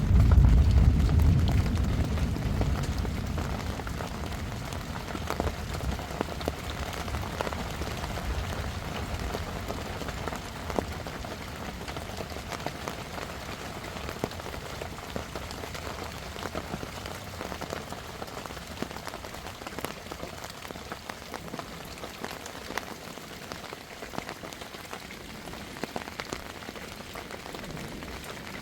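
A loud low rumble of thunder right at the start, fading away over about five seconds, over steady heavy rain with scattered sharp drop impacts.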